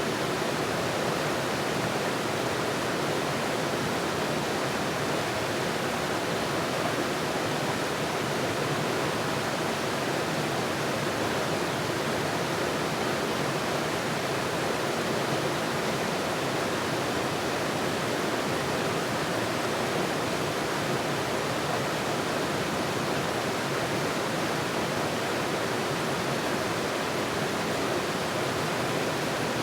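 Steady rushing water, an even, unbroken wash of noise with no change in level.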